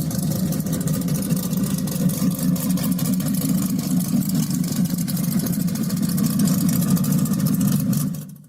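A car engine running steadily, fading out near the end.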